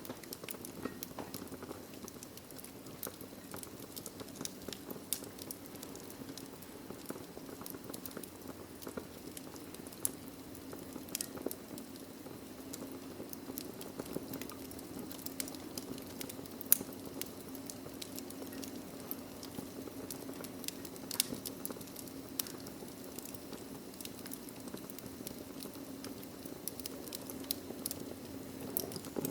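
Wood fire burning in a fireplace: a steady low rumble of flames under frequent irregular crackles and pops from the burning logs, one sharper pop about two-thirds of the way through.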